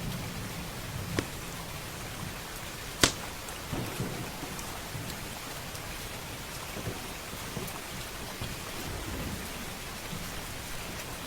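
Steady rain with a low thunder rumble that fades early on, and a few sharp pops from a crackling wood fire, the loudest about three seconds in.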